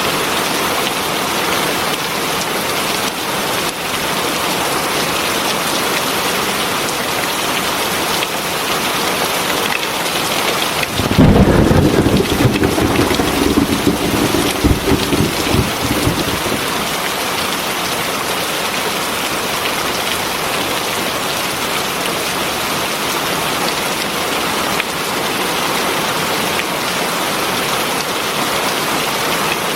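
Heavy rain falling steadily, with a crack of thunder about a third of the way in that rumbles for a few seconds and fades.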